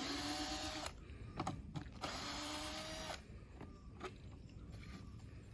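A power drill runs in two short bursts of about a second each, the second with a slightly rising whine. Clicks and knocks of handling fall between the bursts.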